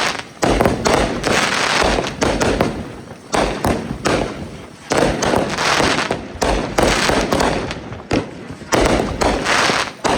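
Fireworks going off in quick succession: a sharp bang about once a second, each trailing off over about a second before the next.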